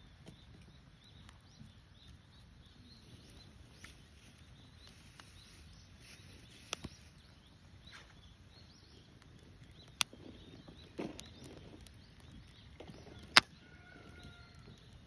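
Campfire crackling quietly, with three sharp pops from the burning wood, the last the loudest. Small birds chirp faintly in the background.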